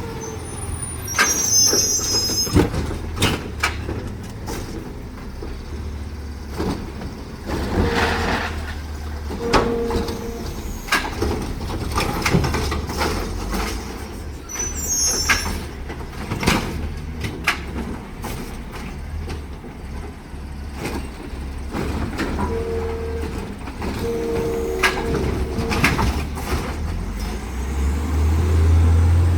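Side-loader garbage truck at work: its engine runs steadily under repeated knocks and clunks, with a few short high squeals and brief mid-pitched tones.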